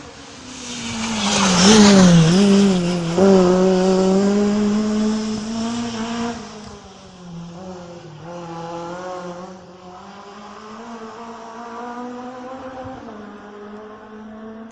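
Rally car passing close at speed, engine loudest about two seconds in with its note dipping and rising as the driver lifts and accelerates, then fading as it moves away while still audible.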